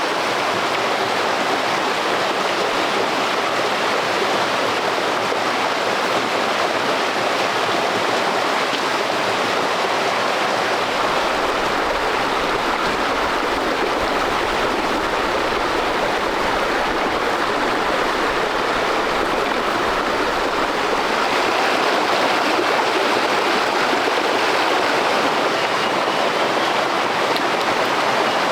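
Stream water rushing over rocks, a steady, even rush with no breaks. A deeper rumble joins underneath for about ten seconds midway.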